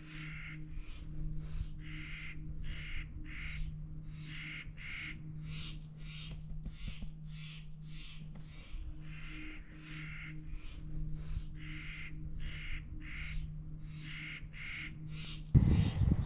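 A bird giving a long, steady series of harsh, crow-like calls, about two a second, over a faint low hum. Near the end, a louder rumbling noise cuts in.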